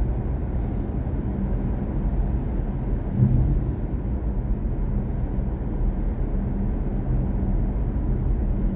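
Steady low road and tyre rumble inside the cabin of a moving BMW i4 M50, an electric car, so there is no engine note.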